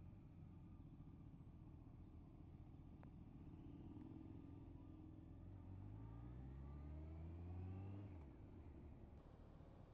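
Faint engine under a low rumble, climbing steadily in pitch as it accelerates, then dropping away suddenly about eight seconds in.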